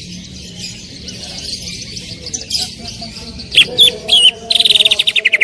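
Green leafbird (cucak ijo) singing loudly: continuous chattering, then a few sharp sweeping whistles about three and a half seconds in, and a fast, loud rapid-fire trill near the end, the 'tembakan' burst prized by bird keepers.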